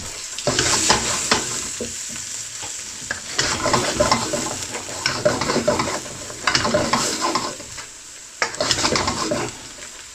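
A utensil stirring and scraping spice masala around a pan as it fries in oil, sizzling, in uneven bursts of scraping that ease off near the end.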